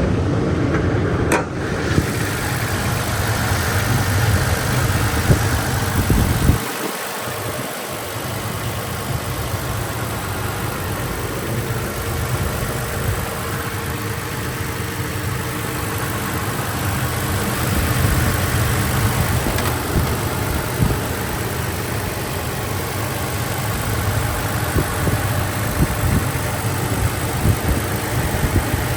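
A 2016 Toyota Tacoma's 3.5-litre V6 engine running steadily, a continuous low rumble that dips briefly about seven seconds in.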